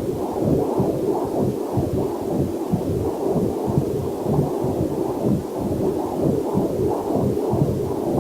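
Heartbeat picked up by a fetal Doppler monitor: a steady, quick train of whooshing pulses, about two to three a second. A faint waterfall hiss is mixed in beneath.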